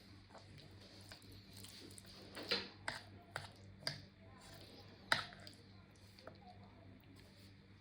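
A handful of sharp clicks and taps, five or so spread a second or less apart, from objects being handled, over a low steady electrical hum.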